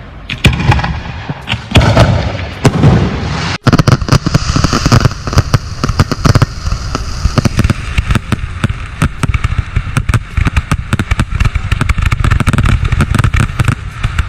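Fireworks: a few loud, echoing shell bursts in the first few seconds, then abruptly a dense, continuous crackling barrage of rapid pops from a ground-fired firework battery close by.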